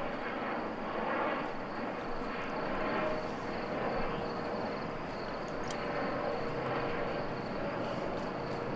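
Steady background noise: an even hiss and rumble with no distinct events.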